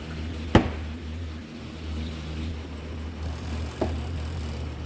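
Spin dryer of a Toshiba 12 kg twin-tub washing machine running with a steady low hum. A sharp click comes about half a second in, and a fainter one just before the end.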